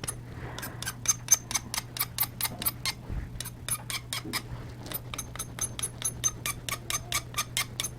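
Rapid back-and-forth rubbing on charcoal paper, about five squeaky strokes a second with a short pause midway, as charcoal dust is blended into the page. A faint steady hum runs underneath.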